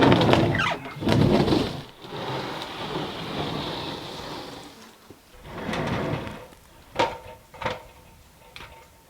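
Sheets of plywood being pulled out and shifted: several noisy scraping slides, then two sharp wooden knocks less than a second apart.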